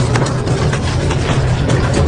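Double-shaft industrial shredder running, a steady low motor drone with many sharp cracks and snaps of metal being torn through.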